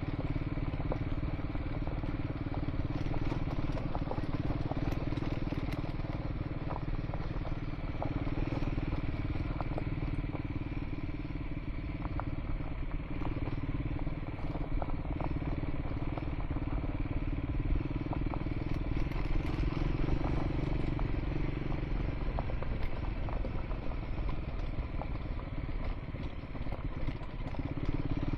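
Triumph Scrambler 400 X's single-cylinder engine running at a steady, nearly unchanging pitch while riding a gravel track, with loose stones crackling and clattering under the tyres.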